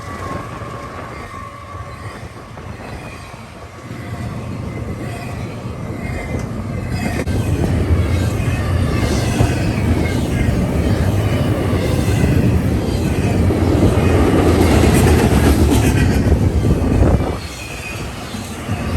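Train rolling past, a heavy rumble of wheels on rail that builds after a few seconds, stays loud, and drops off sharply near the end, with a faint high wheel squeal over it.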